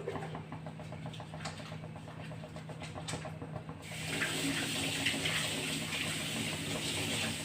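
Kitchen tap turned on about halfway through, water running steadily into a sink. Before that there is a low steady hum with fast, faint ticking.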